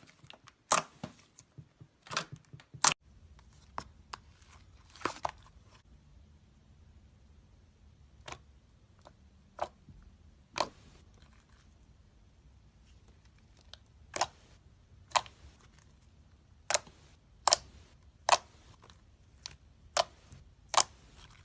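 Slime being pressed and stretched by hand, giving irregular sharp pops and clicks, with a quieter stretch of a few seconds in the middle.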